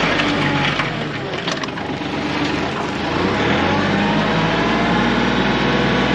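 Kioti CK3510 compact tractor's three-cylinder diesel engine running under load while ripping and grading ground. Its note dips about a second in and then climbs back to a steady pull.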